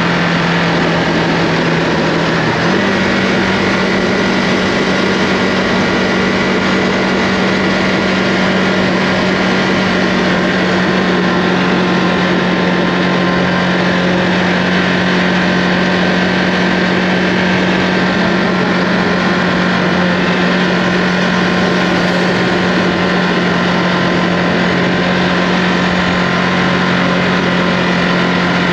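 Ducati Multistrada V2S's 937 cc Testastretta V-twin running at a steady cruising pace, with wind and road noise over it. Its pitch rises a little about two and a half seconds in, then holds steady.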